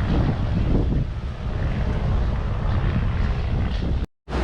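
Wind buffeting the microphone as a steady low rumble, cutting out suddenly for a moment near the end.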